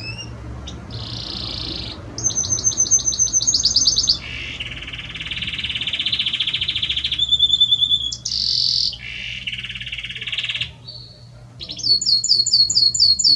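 Male Belgian canary singing a long, continuous song of rapid trills and rolls, switching to a new phrase every second or two, with a brief pause before a fast pulsed trill near the end.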